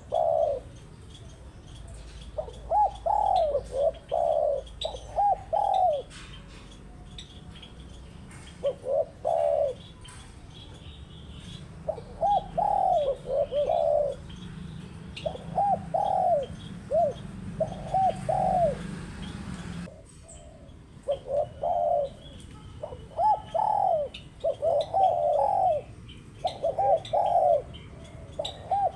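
Spotted dove cooing in repeated phrases of several short, arched coos with pauses between them. Faint chirps of small birds sound in the background.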